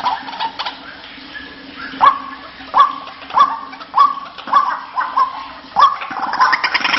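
White-breasted waterhen calling: a fast chattering run fades out in the first second, then short calls that each jump sharply up in pitch repeat about every 0.6 s, before a denser, louder burst of calling builds near the end. A faint steady low hum runs underneath.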